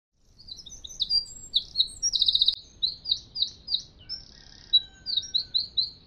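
A songbird singing a rapid, varied song of short high notes, with a quick trill about two seconds in.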